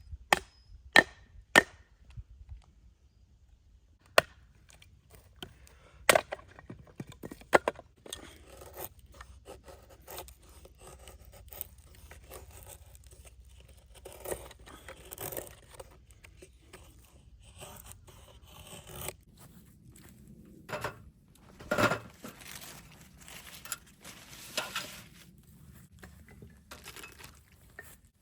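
Firewood being batoned with a small camping knife: a run of sharp wooden knocks as the blade is driven in, then scraping and splitting of wood fibres with a few more knocks later on.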